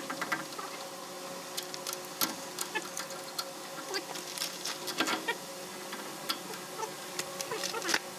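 Irregular sharp clicks and light taps, several a second at uneven spacing, over a faint steady hum.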